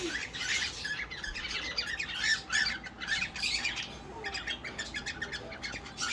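Cockatiels chirping and squawking, a fast run of short, high chirps with a brief lull about four seconds in.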